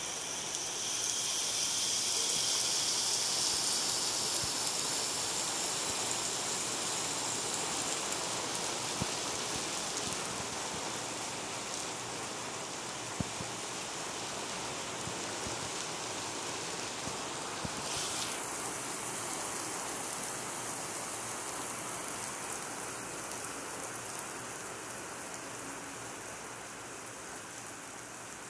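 Heavy rain falling steadily on pavement and parked cars: an even hiss, a little louder in the first few seconds and easing slightly after, with a few faint sharp ticks of single drops.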